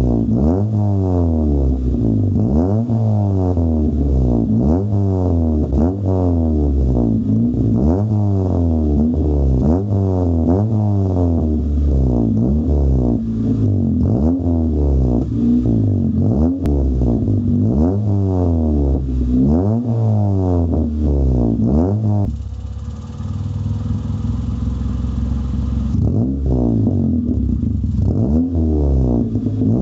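Honda Civic four-cylinder engine through a new loud aftermarket exhaust, revved in repeated quick blips about every second and a half, popping as the revs fall. About three quarters of the way through it drops back to idle for a few seconds, then the blipping starts again.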